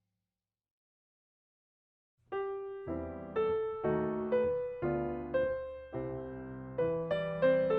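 Silence for about two seconds, then soft background piano music begins, with notes struck about twice a second and each fading away.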